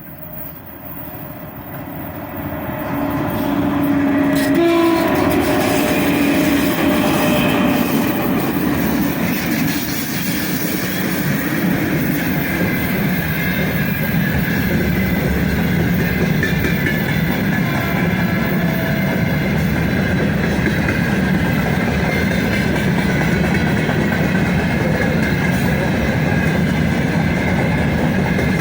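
A 3ES5K 'Ermak' electric locomotive hauling a long freight train draws near and passes, getting louder over the first few seconds. It gives a short horn blast a few seconds in. After that, the freight wagons roll past with a steady, loud rolling rumble and rattle.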